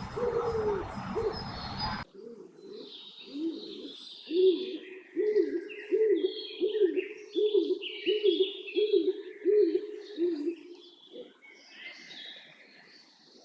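A bird cooing in a steady series of about ten low, arching notes a little over half a second apart, with smaller birds chirping higher up. The first two seconds are a noisier stretch with similar low calls, which ends abruptly at a cut.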